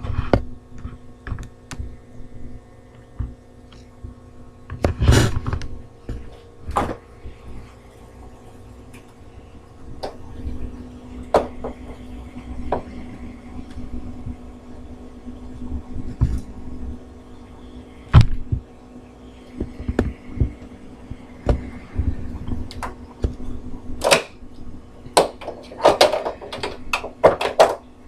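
A steady low electrical hum from a household appliance, with scattered sharp clicks and knocks over it, several clustered near the end.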